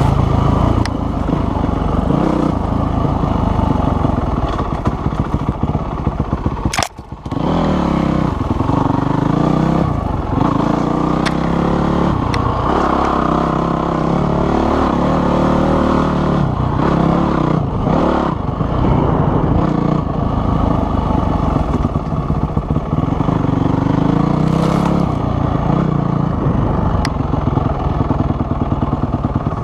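Dirt bike engine running and revving up and down repeatedly. About seven seconds in there is a sharp click and a brief dip in the sound.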